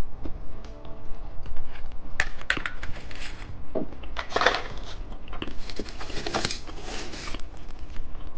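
Close-miked crinkling and clicking of candy and its plastic packaging being handled, in bursts, with the loudest rustle about four to five seconds in and another around six to seven seconds in.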